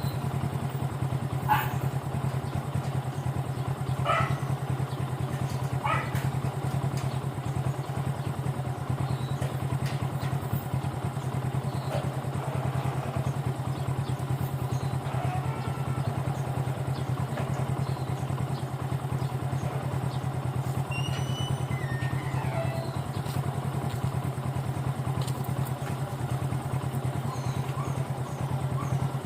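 Motorcycle engine idling steadily, with a few light clicks in the first several seconds.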